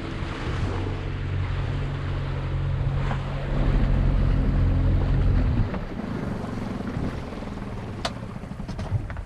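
Motor launch's engine running with a low hum that swells and then drops away suddenly about five and a half seconds in, over water sloshing and wind on the microphone.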